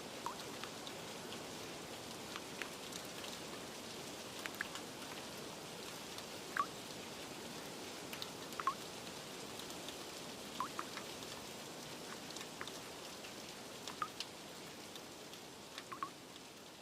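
Steady rain hiss with scattered individual drips plinking onto a surface, some with a short pitched ring. The rain begins to fade out near the end.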